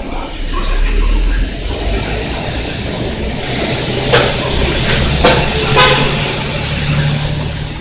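Electric train running past at the station: a loud steady rumble, with three short sharp high sounds between about four and six seconds in.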